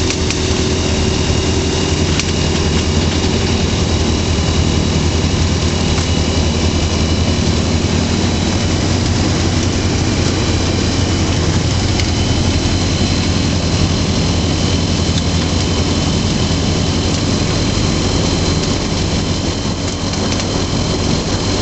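Rotax 912 flat-four engine of a Skyranger microlight running steadily, with a brief slight dip in level near the end.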